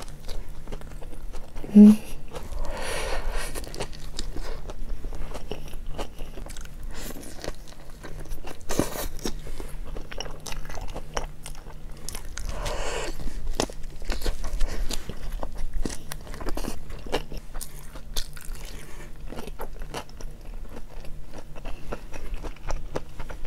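A person biting and chewing a hot dog with lettuce, pickles and sausage: a dense run of small crunches and mouth clicks.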